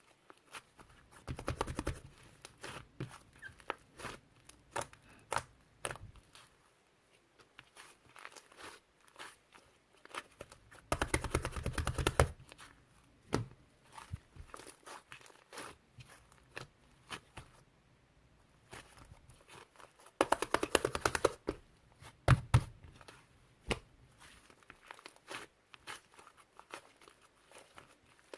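Fluffy white clay slime being squeezed and poked by hand, giving irregular small pops and crackles. There are two longer runs of dense crackling, about eleven and twenty seconds in.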